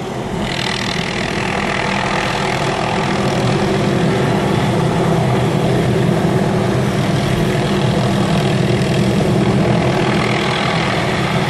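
Helicopter running close by, a steady loud drone of engine and rotor that grows louder over the first couple of seconds and then holds.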